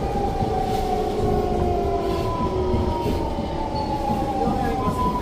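Inside a Siemens C651 metro car under way: steady rumble of wheels on rail with a whine from the traction equipment that falls slowly in pitch as the train slows.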